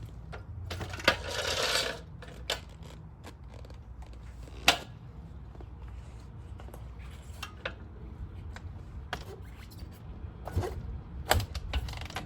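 Scattered metallic clicks and clinks over a faint low hum, with a short rushing noise about a second in.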